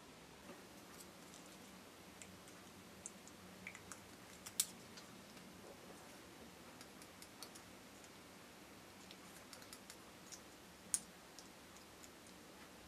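Faint, scattered small clicks and taps of tools and small plastic parts being handled on a work surface while building a miniature, with two sharper clicks, one about four and a half seconds in and another near eleven seconds.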